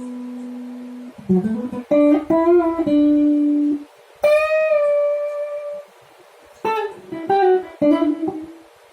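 A Jcraft LTX Telecaster-style electric guitar plays a jazzy single-note lead with the pickup selector in the middle position and a warm tone. It opens on a held note, then a quick run of notes, then a bright note that rings for a second or two about four seconds in, and a few more short notes near the end.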